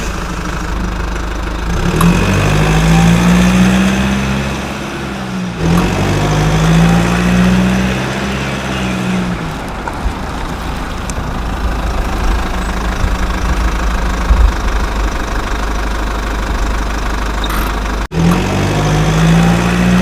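Vehicle engine running steadily, its pitch swelling up and back down in slow revs three times, with abrupt breaks between the passages.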